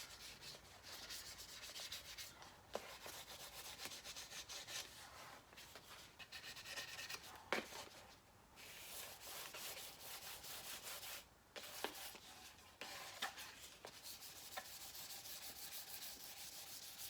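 Fine sandpaper rubbed back and forth by hand over clear-coated paintwork, in quick strokes with a few short pauses, sanding down the clear coat to take out orange peel.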